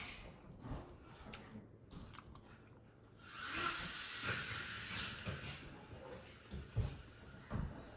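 Close-up chewing and biting of saucy prawns, with small clicks and wet mouth sounds, and a loud sucking noise lasting under two seconds about three seconds in.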